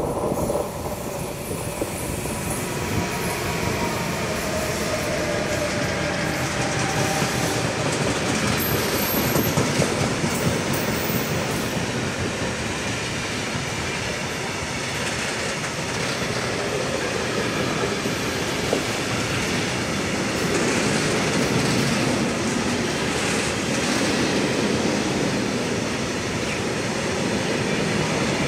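Freight train passing close by on a curve, hauled by three ÖBB electric locomotives (a Rh 1216 Taurus leading, a second Taurus and a Vectron), followed by a long rake of open freight wagons. Steady, loud rolling noise of steel wheels on the rails, with a few thin tones in the first several seconds while the locomotives go by.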